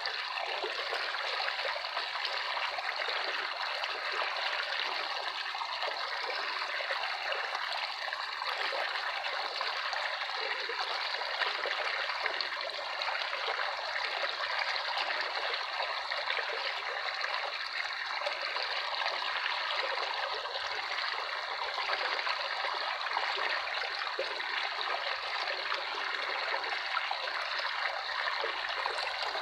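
Running water of a small stream trickling steadily, without pauses or surges.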